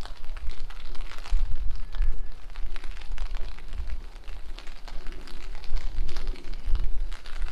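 Rain falling steadily with many small patters, and gusts of strong wind buffeting the microphone in uneven low rumbles.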